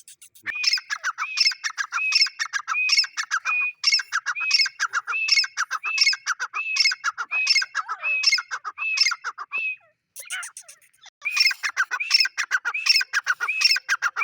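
Male grey francolin calling: a loud, rapid series of repeated harsh notes, each rising at its end, at more than one a second. The series breaks off about ten seconds in and resumes after a second or so.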